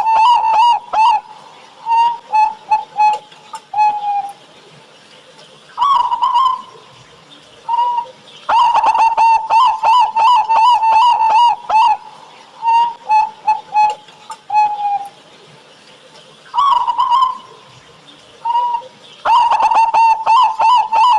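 Zebra dove (perkutut) singing its cooing song, loud and close. Each bout opens with a short rising note, runs into a quick string of coos, and ends with a few spaced coos and a lower falling note. The song repeats about three times, with short pauses between bouts.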